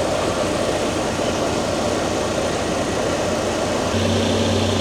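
Diesel fuel pump running while refuelling a truck: a steady rushing noise with a constant hum. A deeper hum comes in about four seconds in.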